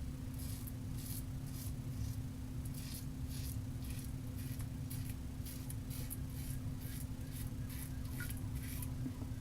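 Safety razor strokes scraping through lathered stubble, short strokes about two to three a second, over a steady low hum.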